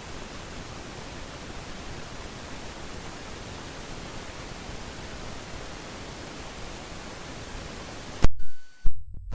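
Steady, even hiss like static. About eight seconds in it breaks off with a sharp click, and a second loud peak follows less than a second later.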